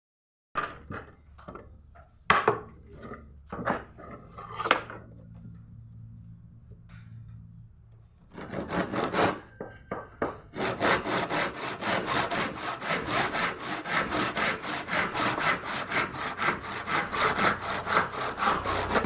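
Hand saw cutting wood in quick, regular strokes, about three a second, starting a little under halfway through. Before that come a few scattered knocks and clicks of the wood and saw being handled.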